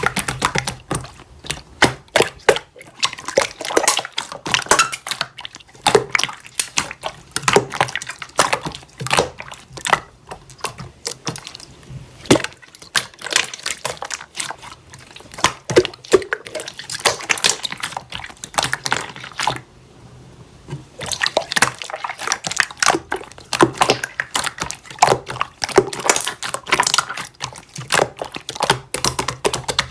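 Slime being squished and worked by hand, a dense run of wet clicks and pops, with a short pause about two-thirds of the way through.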